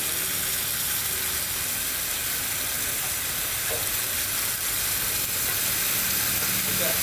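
Masala-coated chicken pieces frying in coconut oil on a flat iron griddle: a loud, steady sizzle.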